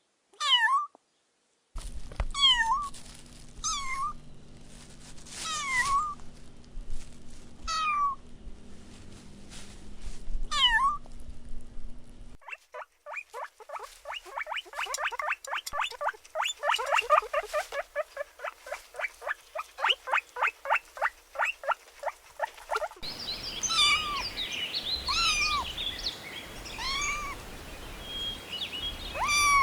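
Kittens meowing: separate high mews every second or two. In the middle comes a fast run of short, high calls, several a second. Near the end, meows are mixed with higher chirps.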